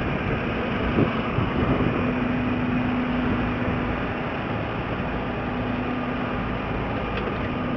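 A vehicle running steadily: an even noise with a constant low hum and no change in pace.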